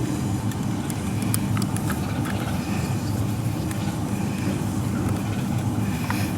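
Steady low machine hum at a constant pitch, with scattered light clicks and taps.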